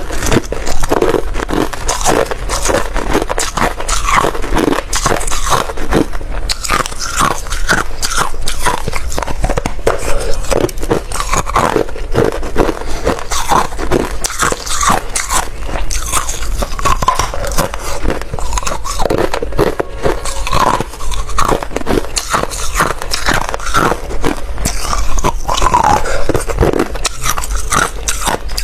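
Hard ice being bitten and chewed close to the microphone: dense, continuous crunching and cracking.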